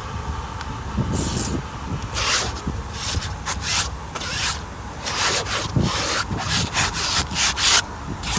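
A hand scrub brush scrubbing the car's interior upholstery in quick back-and-forth strokes, about two scratchy strokes a second.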